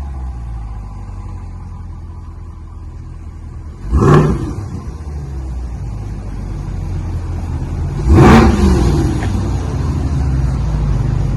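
2021 Corvette Stingray's 6.2-litre V8 idling through its stock factory exhaust, blipped twice, about 4 and 8 seconds in, each rev dropping quickly back to a steady rumbling idle.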